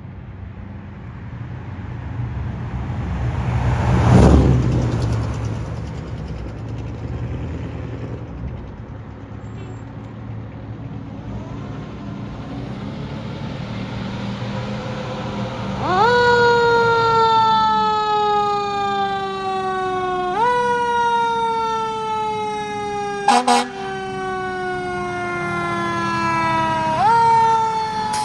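Fire apparatus responding: a diesel engine rumble swells to a loud rush about four seconds in. From just past halfway a siren sounds, each cycle jumping up quickly in pitch and then sliding slowly down, restarted about every four to six seconds, with a short loud horn blast in between.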